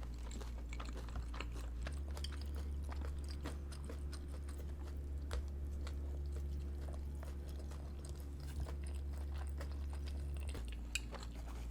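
Close-miked chewing of dumplings and buns: scattered soft clicks and squishes of a mouth working food, over a steady low hum.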